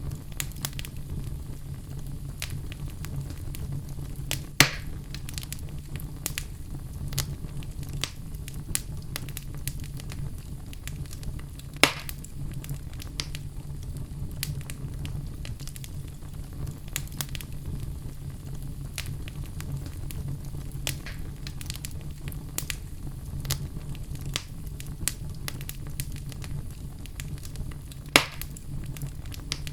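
A fire in a fireplace crackling steadily over a low rumble, with frequent small snaps and three much louder pops spread through it.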